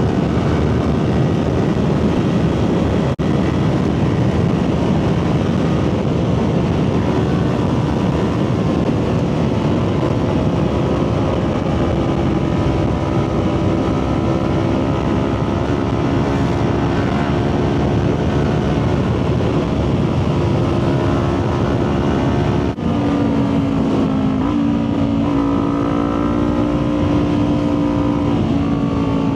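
Motorcycle engine running steadily at road speed under a heavy rush of wind noise. About 23 seconds in, the engine note breaks for an instant and comes back lower: an upshift.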